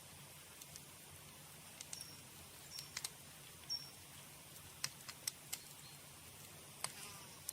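Campfire of burning wood crackling: irregular sharp pops and snaps, about a dozen, over a faint steady hiss.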